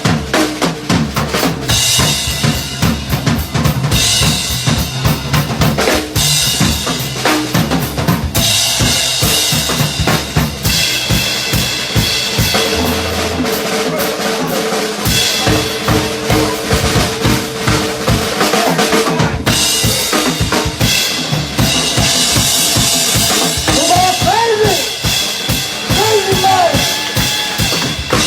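A band playing an instrumental passage with no singing, the drum kit prominent with kick, snare and rimshots. A held note runs through the middle, and a lead line bends up and down in pitch near the end.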